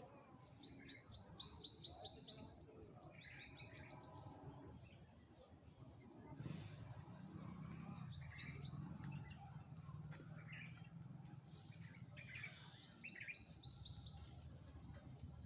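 A small bird singing in three bursts, each a quick series of high chirps sweeping downward, with a few softer chirps between the bursts.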